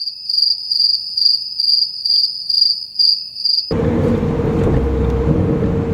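Cricket chirping in an even, rapid pulsing rhythm over dead silence, cut off suddenly about three and a half seconds in. A car's engine and road noise then come back at a steady cruise.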